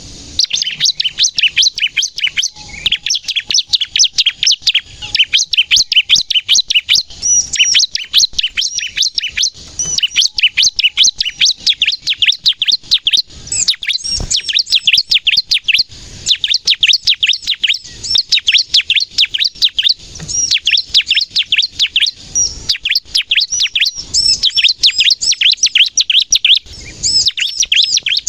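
Bar-winged prinia (ciblek) singing loudly in fast rapid-fire chirping runs of several high notes a second. The runs are broken by short pauses every couple of seconds.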